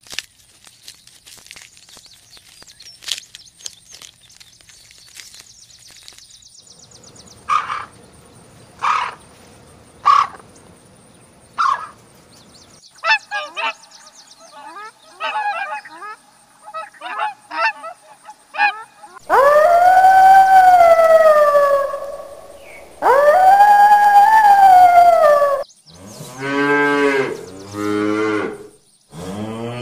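Cattle mooing: two long, loud moos, then three shorter, lower moos near the end. Before them come quieter short calls: four spaced about a second and a half apart, then a quicker run of them.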